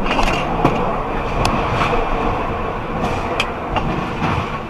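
Road vehicle noise: a steady rush of a moving vehicle or passing traffic, with a few sharp clicks or knocks.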